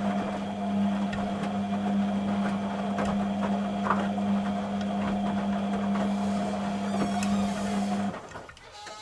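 Beko WTG620M1 washing machine running with a steady electric hum, light rattling and scattered clicks, which cuts off abruptly about eight seconds in.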